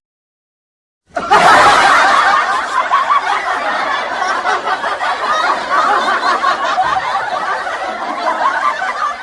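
Stock sound effect of a crowd laughing, many voices chuckling and snickering at once, starting about a second in and holding steady.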